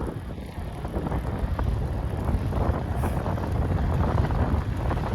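Wind rushing over the microphone of a camera on a bicycle riding downhill: a loud, steady low rumble that grows a little louder after the first second.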